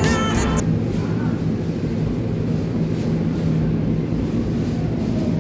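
A song's last notes end about half a second in. After that comes a steady low rumble with a faint hum, the background ambience of a supermarket.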